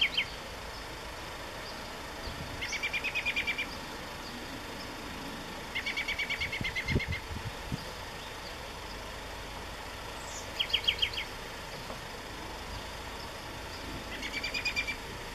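A songbird sings a rapid trill about a second long, repeated four times at intervals of about four seconds. A single low thump comes about seven seconds in.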